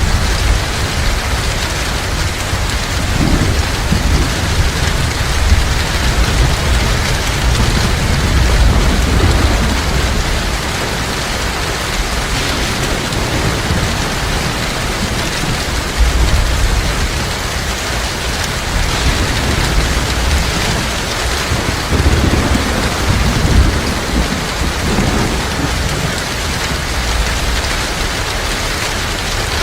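Heavy rain falling steadily, with deep rolling thunder that swells and fades several times.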